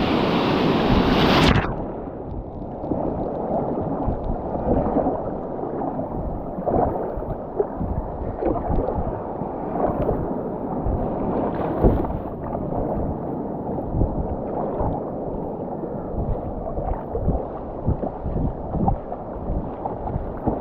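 Water sloshing and splashing around a kayak being paddled out through small surf, muffled, with irregular swells and knocks. In the first second and a half a brighter hiss of surf and wind is heard, which cuts off suddenly.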